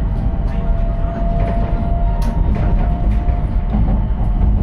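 Moving train heard from inside the carriage: a steady low running rumble with a faint steady whine and a few light clicks.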